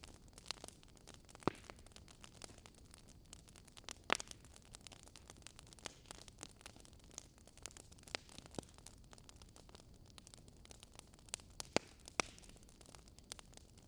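Wood fire crackling: a soft hiss with scattered sharp pops at irregular moments, the loudest about four seconds in and near twelve seconds.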